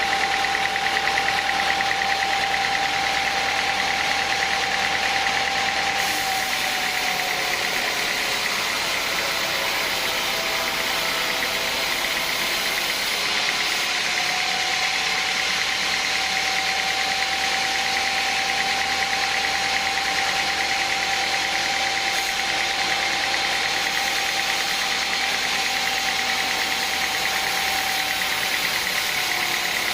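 Sawmill machinery running steadily with a continuous whine over a dense mechanical din. The whine sags in pitch for several seconds partway through, recovers, then sags again near the end.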